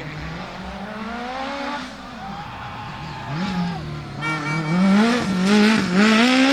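A rally car's engine revving hard, its pitch rising and dropping again and again as the driver works the throttle and gears. It grows much louder about four seconds in.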